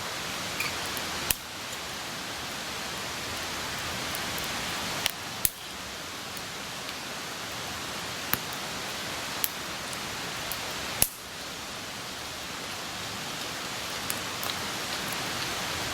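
Wood campfire burning: a steady hiss of flame with a sharp pop from the burning wood every couple of seconds and fainter crackles in between.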